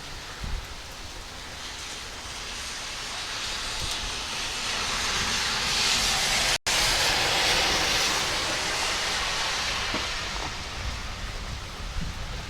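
Heavy storm rain hissing, swelling to a loud peak around the middle and easing off again, with a split-second dropout just past the middle.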